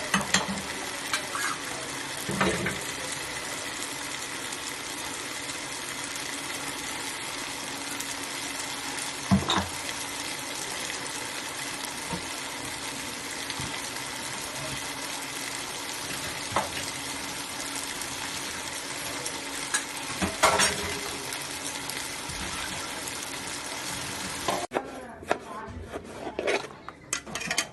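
Food frying and sizzling steadily in a cooking pot, with a few sharp knocks of a spoon against the pot while it is stirred. The sizzle cuts off abruptly near the end.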